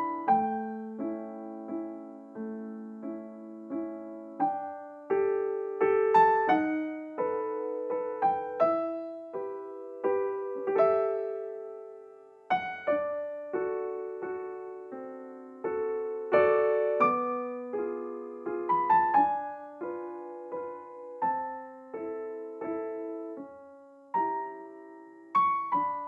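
Background piano music: a slow melody with chords, each note struck and then fading.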